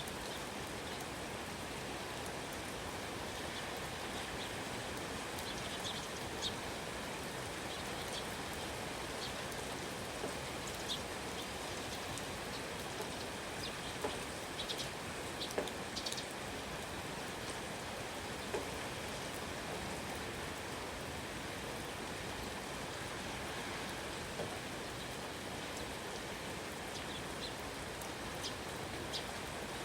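Steady rain falling, an even hiss with no change in level. A few brief high bird chirps break through here and there, most around the middle.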